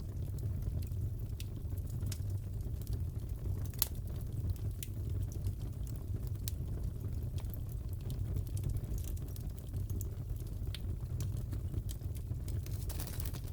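Fire crackling in a fireplace: a steady low rumble with sharp pops and crackles scattered at irregular intervals, the strongest pop about four seconds in.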